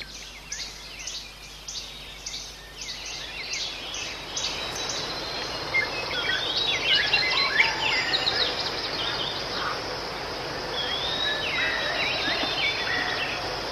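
Outdoor birdsong over a steady hiss. For the first few seconds one bird repeats a short high chirp about twice a second. After that, several birds' whistles and trills overlap.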